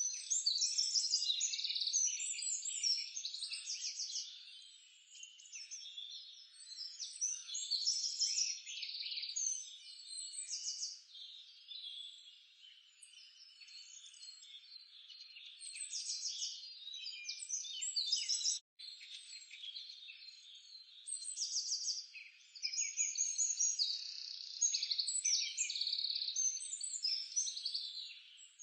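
A dense chorus of birds chirping and trilling, busy and overlapping, with frog-like calls mixed in. The sound cuts out for a split second about two-thirds of the way through.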